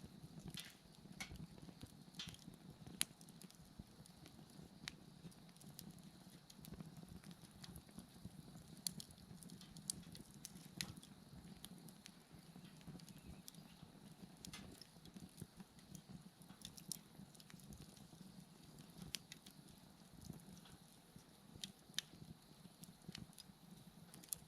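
Wood bonfire crackling softly: irregular sharp pops and snaps, a few louder than the rest, over a low steady rumble of the flames. Faint steady insect calls sit high in the background.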